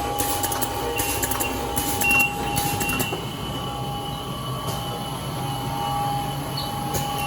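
Plastic bag-making machine running on LDPE film, a steady mechanical hum with a couple of constant whining tones and a low rumble. Repeated sharp clattering strokes in the first three seconds, then the running noise goes on steadier.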